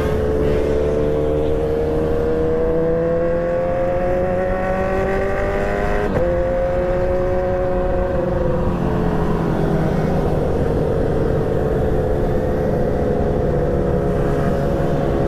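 Motorcycle engine under way, pulling with its pitch slowly rising, with a short break about six seconds in as it shifts up, then easing off with the pitch gradually falling. There is a steady low rumble of wind and road under it.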